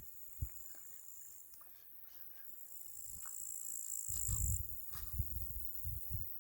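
Crickets trilling steadily at a high pitch, growing louder midway and cutting off suddenly about two-thirds of the way through. Soft low thumps come in a quick run in the second half.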